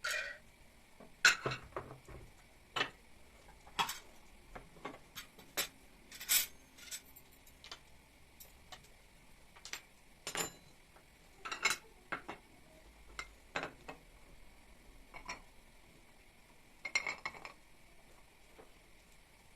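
Dishes and cutlery clinking and knocking as they are handled and set down, in a series of separate sharp clinks at irregular intervals.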